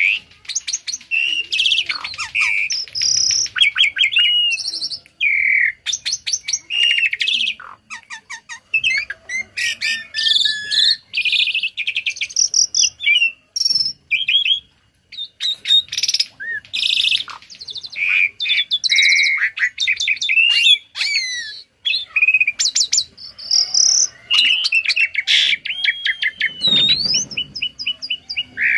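Tame jalak (starling) singing a loud, varied song of chirps, fast repeated notes and rising and falling whistles, with short pauses between phrases, mixing in imitations of other birds' calls. A brief low rumble comes near the end.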